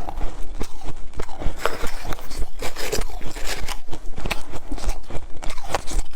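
Ice being bitten and chewed, a dense run of irregular loud crunches and cracks.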